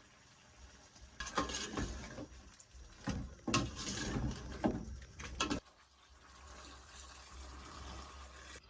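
Kitchen clatter of pots, lids and utensils in several bursts with sharp clicks and knocks, then a quieter steady noise for the last few seconds.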